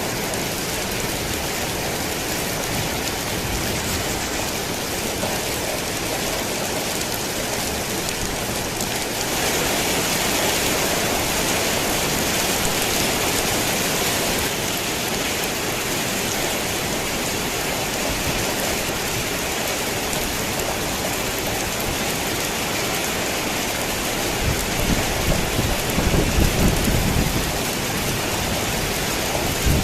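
Steady rain on a tin roof, heavier for several seconds about a third of the way through, with a low rumble of thunder near the end.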